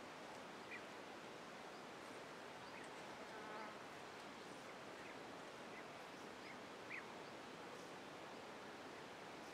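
Quiet woodland ambience: a steady faint hiss with a few short bird chirps, and a brief insect buzz about three and a half seconds in.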